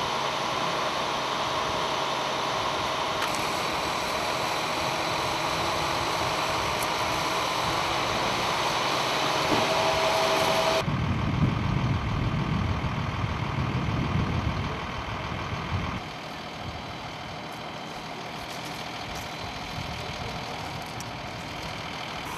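Vehicle engines idling across several cut-together shots, the sound changing suddenly a few times. About halfway through, a heavier low rumble takes over for several seconds, then fades to a quieter engine hum.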